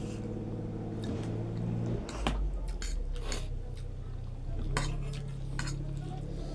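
Eating utensils clinking and scraping against a bowl of instant noodles in a series of sharp clicks, over a steady low hum.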